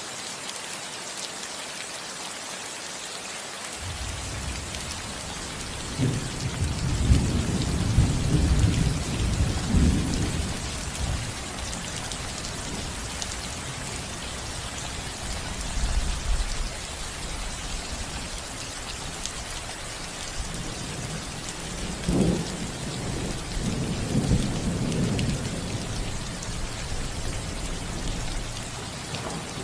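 Steady rain falling on a house roof, with two rolls of thunder: one starting with a crack about six seconds in and rumbling for several seconds, another a little past twenty seconds. The thunder is the loudest part.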